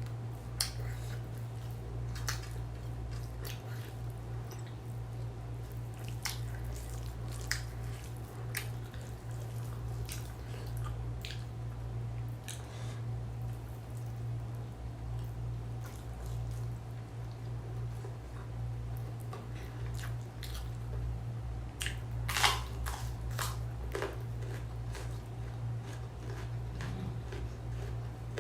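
Eating close to the microphone: chewing with scattered short clicks and smacks, busiest about 22 seconds in, over a steady low hum.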